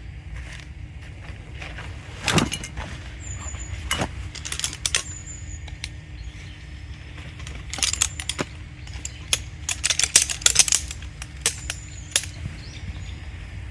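Irregular metallic clinks and rattles of camping gear being handled while a tent is pitched, thickest near the end, over a low steady rumble.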